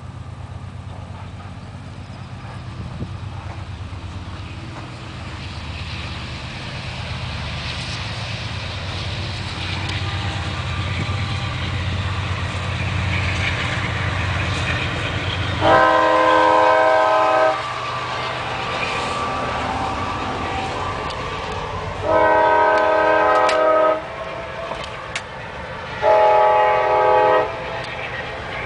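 A diesel engine runs steadily, with noise building slowly over it. Then a multi-tone air horn sounds in long blasts, three in the second half and a fourth starting near the end.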